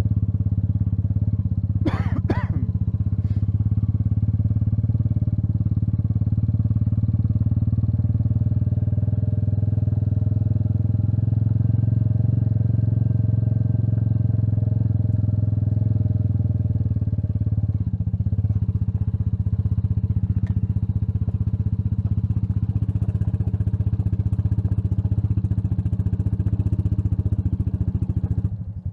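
Royal Enfield Meteor 350's single-cylinder engine running steadily while riding, with a brief higher-pitched sound about two seconds in.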